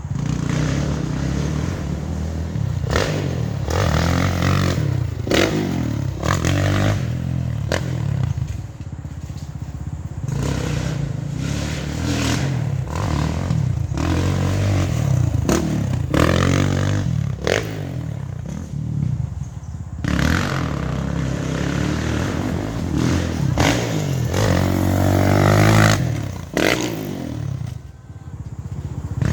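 Dirt bike engine revving up and easing off again and again as it is ridden, with a long climb in revs near the end that cuts off suddenly, and frequent knocks and rattles throughout.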